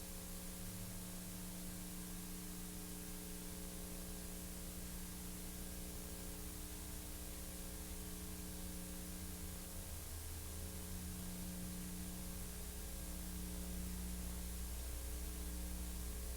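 Steady hiss with a low electrical hum and a few faint steady tones: the empty soundtrack of a silent film transfer, with no other sound.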